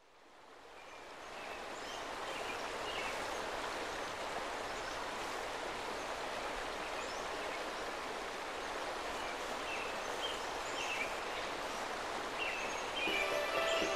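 Steady rush of running water that fades in over the first couple of seconds, with short high chirps scattered over it. Music comes in near the end.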